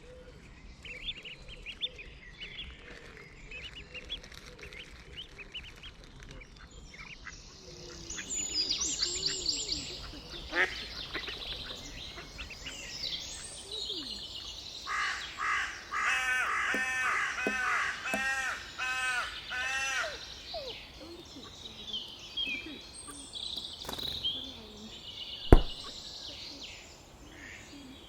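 Woodland birds singing and calling, many short overlapping notes, with a louder run of quickly repeated calls about halfway through. A single sharp knock near the end.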